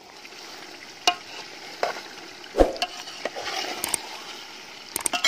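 Chicken pieces sizzling in a hot metal pot while a metal spoon stirs them, knocking and scraping against the pot about five times, the loudest knock about halfway through.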